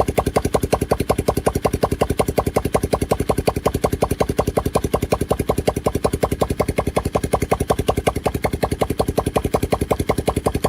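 Small ATV engine idling steadily, with an even beat of rapid firing pulses.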